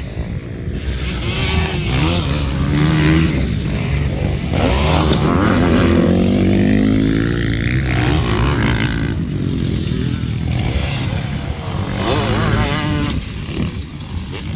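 Motocross bikes racing on the track, engines revving up and dropping back through the gears as they pass, loudest from about two to eight seconds in.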